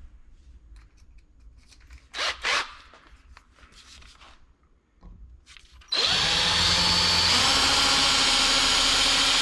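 Two short bursts a little over two seconds in. About six seconds in, an electric drill starts up and runs steadily for about three and a half seconds, a 1/8-inch bit cutting off the head of a metal drive rivet.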